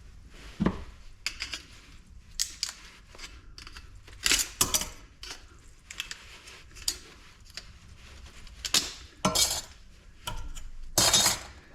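Irregular clinks, knocks and short scrapes of aluminum fins and plates being pried and handled while a scrap light fixture is taken apart, with a few louder clatters in between.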